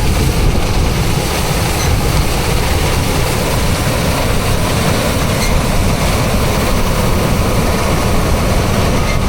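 Combine harvester running steadily: a loud, even machinery noise without breaks.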